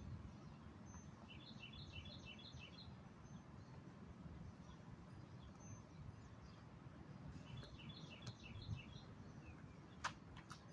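Quiet outdoor ambience with a small bird singing two short phrases of quick repeated chirps a few seconds apart. Near the end, a sharp tap as gloved hands land on gravel.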